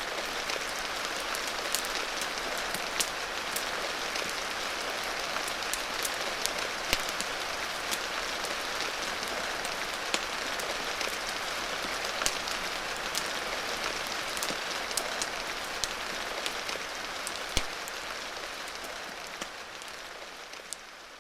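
Steady rain hiss mixed with a fireplace's scattered sharp crackles and pops, fading out over the last few seconds.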